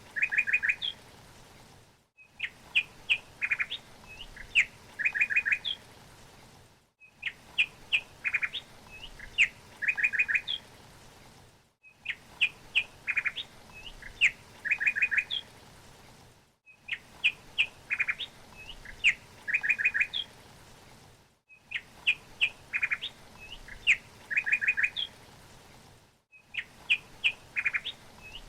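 Songbird chirps, each phrase ending in a quick four-note trill, high-pitched. It is one short recording looped about every five seconds, with a brief dropout between repeats.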